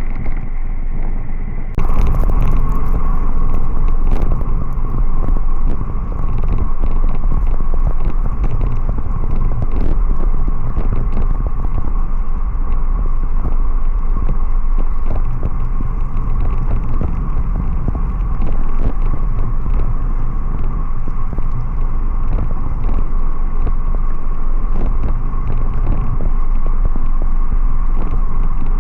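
Riding noise on a moving motorcycle: a steady rumble of engine and rushing air that gets louder and hissier abruptly about two seconds in.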